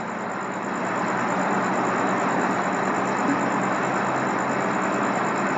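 Steady engine noise from idling vehicles, getting a little louder about a second in and then holding even.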